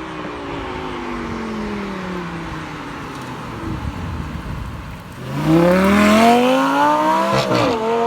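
A car engine at first falling in pitch as it eases off. About five seconds in it comes on hard, loud and rising in pitch under acceleration. Near the end there is a short drop at a gear change before it climbs again.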